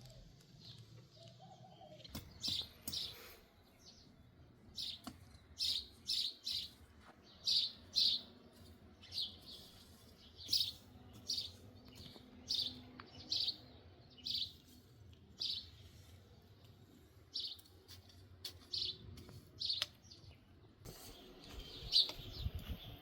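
Small birds chirping: short, high chirps, often in pairs, repeated about one or two a second, starting about two seconds in.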